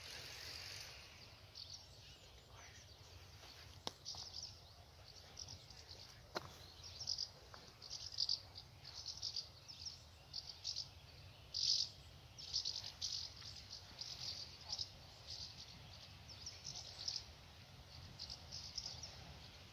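Faint chirping of small birds in short, irregular bursts over a low steady rumble, with two sharp clicks a few seconds in.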